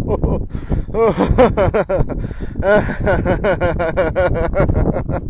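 A man laughing in rapid, rhythmic 'ha-ha-ha' bursts, several a second, imitating a chugging tractor engine in a laughter-yoga exercise; the pitch of the laughs swoops up and down.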